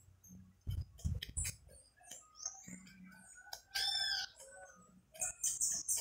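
Birds calling: one loud call with an arching pitch about four seconds in, and short high chirps near the end. A few dull knocks come in the first second and a half.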